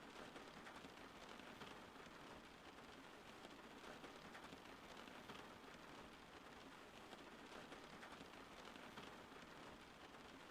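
Steady, faint rainfall: an even hiss of rain made up of many small drop impacts.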